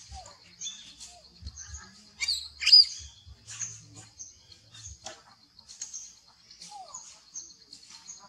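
Small birds chirping repeatedly in short high calls, with one louder, sharper chirp about two and a half seconds in.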